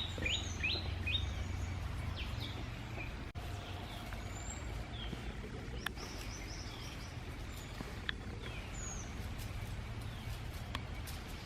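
Wild birds calling: a quick run of falling chirps at the start, then scattered short chirps and whistles, over a steady low rumble with a few sharp clicks.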